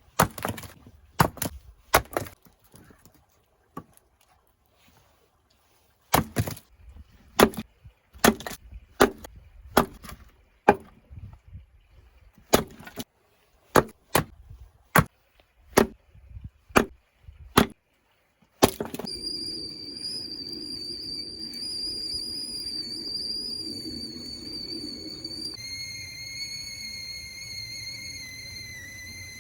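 Husqvarna hatchet striking and splitting dry pine firewood: a long run of sharp chops, often about one a second, with a short pause early on. About two-thirds of the way through the chopping stops and a steady high-pitched chirring of insects takes over.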